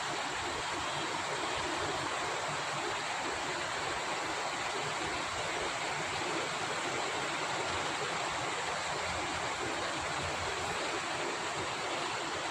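Steady rain falling, an even, unbroken hiss with no single drops standing out.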